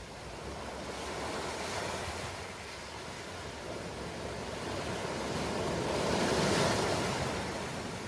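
Ocean waves washing ashore: one surge about two seconds in and a bigger one building to a peak about six and a half seconds in, then easing off.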